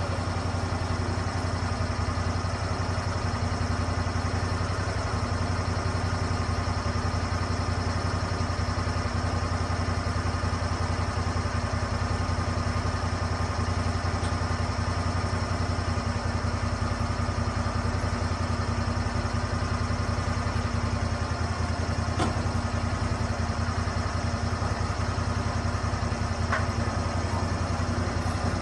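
Lucas Mill 10-30 swing-blade sawmill's engine running at a steady, even pitch, with a few faint clicks in the second half.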